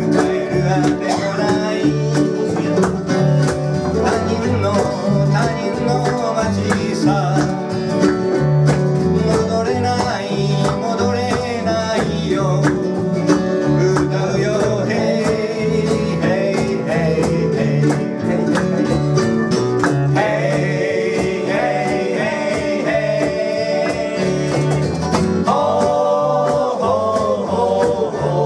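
Live performance of a country-style song: guitar strummed in a steady beat, with singing.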